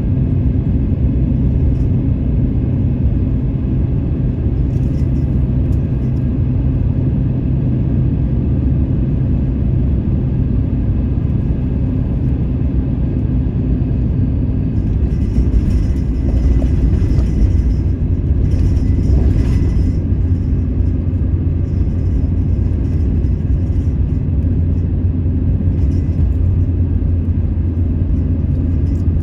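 A van driving: steady engine and road rumble, its engine note dropping to a lower pitch about halfway through.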